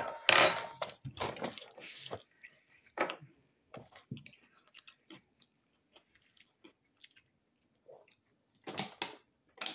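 A man chewing boneless chicken wings, with wet mouth sounds and a sharp breathy exhale at the start, then drinking from a plastic water bottle; the noises come in short, scattered bursts.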